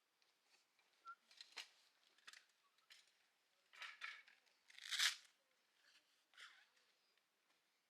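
A few soft, scattered clicks and rustling scrapes of small objects being handled, loudest about four and five seconds in.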